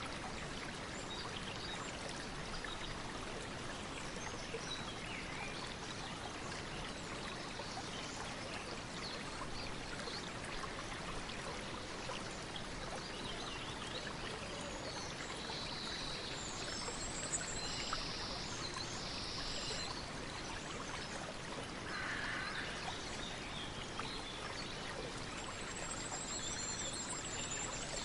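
Running water, a steady rush, with a few short high chirps over it in the second half.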